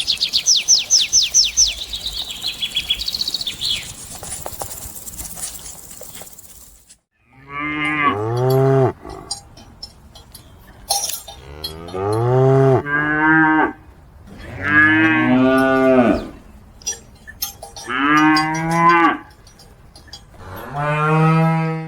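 A bird's rapid high-pitched trill for the first few seconds, then, after a short gap, a cow mooing five times, each call about a second and a half long.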